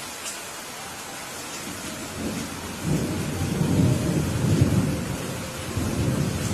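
Steady rain hissing, with a roll of thunder that rumbles in about two seconds in, swells through the middle, and rolls again briefly near the end.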